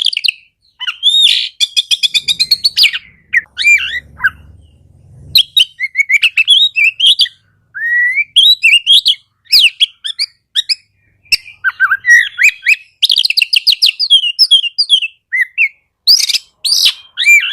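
Oriental magpie-robin (kacer) singing a full, rapid song of varied whistles, chirps and fast trills, broken by brief pauses.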